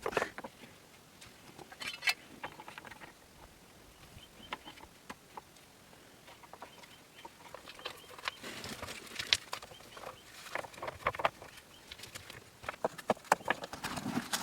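Irregular light clicks and knocks, a few around two seconds in and many more close together from about eight seconds on.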